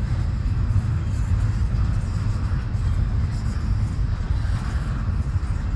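Double-stack intermodal freight cars rolling past, a steady low rumble of steel wheels on the rails.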